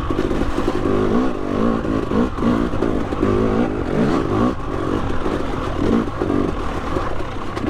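2020 KTM 300 XC TPI two-stroke single-cylinder dirt bike engine, held in third gear, its revs rising and falling in quick, uneven surges as the throttle is worked over slippery terrain.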